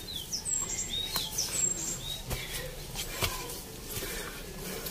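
Small birds chirping: a quick run of short, high, sweeping chirps over the first two seconds. Two sharp knocks come a little after two and three seconds in.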